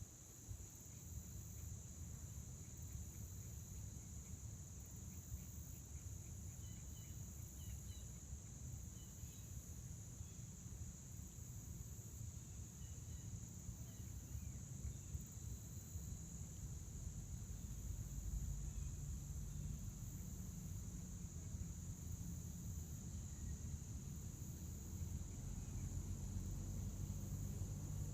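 Crickets trilling in a steady, unbroken high-pitched chorus, over a low rumble that grows louder in the second half. A few faint short chirps come about a third of the way in.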